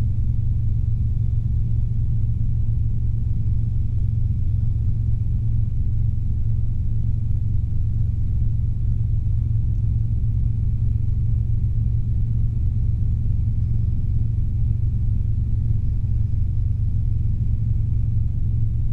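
Steady low drone of a Robinson R22 helicopter's engine and rotors in flight, heard from inside the cabin, unchanging throughout.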